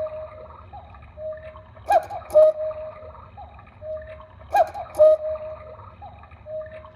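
Black Forest cuckoo clock striking the hour, its bellows-pipe cuckoo giving two-note calls about every two and a half seconds, each with clicks from the mechanism.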